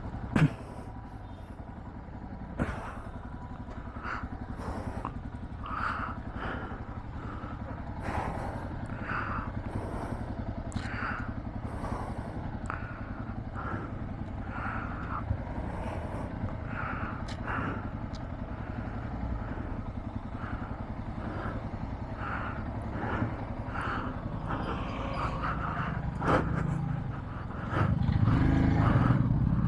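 Motorcycle engine running steadily on the move, with a louder low rumble near the end.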